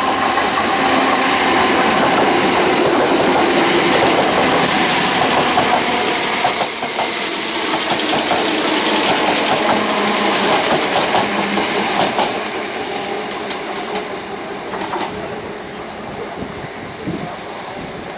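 Greater Anglia electric multiple-unit train running past close by at speed: a steady rush of wheels on rail with a high hiss that peaks about halfway, then fades away over the last few seconds.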